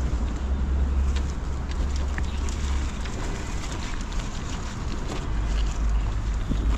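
Wind buffeting the microphone outdoors, a heavy uneven low rumble, with a few faint bird chirps above it.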